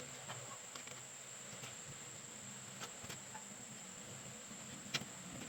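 Faint, steady high-pitched insect drone with a few light clicks, the sharpest about five seconds in.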